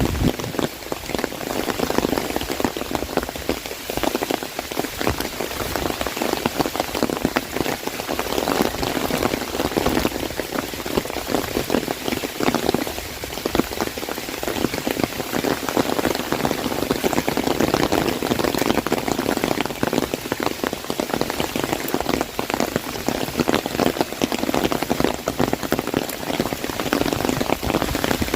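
Heavy rain falling on an umbrella overhead: a dense, steady hail of drops striking the canopy.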